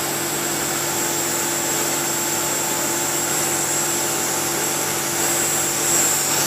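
Steady hum and hiss of running workshop machinery, with a constant low hum and a thin high whine.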